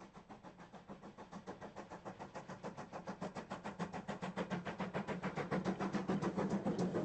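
Great Western Collett 2251 Class 0-6-0 steam locomotive No. 3205 working, its exhaust beats coming quickly and evenly and growing steadily louder.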